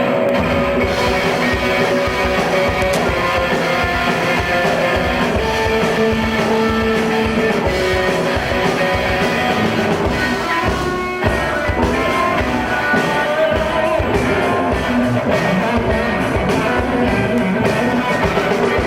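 Live rock band playing an instrumental intro: electric guitars, bass and drums on a steady beat, with a brief drop in the drums about eleven seconds in.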